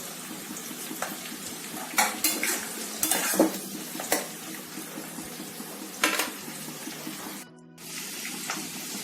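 Cubed onions, capsicum and green chillies sizzling in hot oil in a pan, stirred with repeated scrapes and clinks against the pan. The sound drops out briefly near the end.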